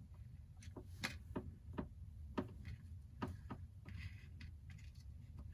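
Light, irregular clicks and taps of small metal tools and tiny screws being handled during a phone repair, with a brief scrape about four seconds in, over a steady low hum.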